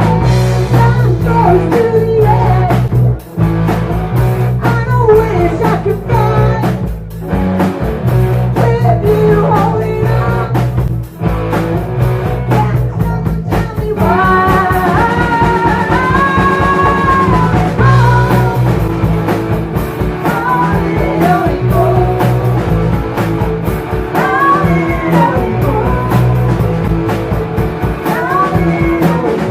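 Live rock band playing: electric guitar, bass and drums, with a bending melody line over them that stands out from about halfway.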